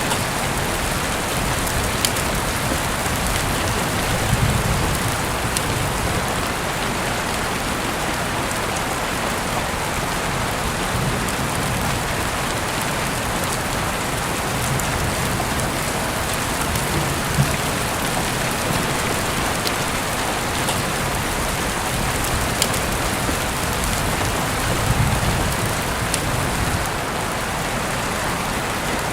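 Steady rain falling, an even hiss with scattered sharp clicks of drops, and a few soft low rumbles swelling briefly.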